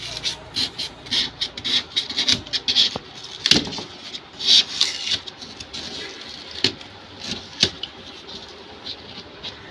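Irregular scraping and rubbing strokes, quick and close together for about the first five seconds, then fewer and further apart.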